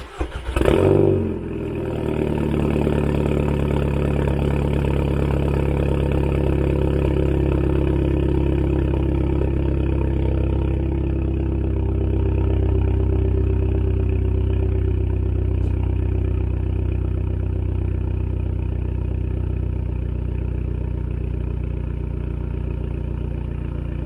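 Car engine blipped once about a second in, then idling steadily with a low, even exhaust drone.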